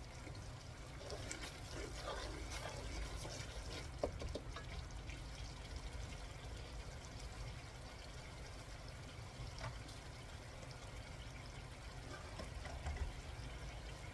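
Masala paste simmering and bubbling in a pan, with soft crackles and small pops as its oil separates out; a single sharp tap about four seconds in.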